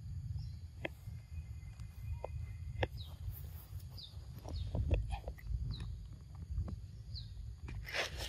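Outdoor ambience: a bird repeating short, high, falling chirps about once a second over a steady low wind rumble, with scattered sharp clicks and a brief rustle near the end.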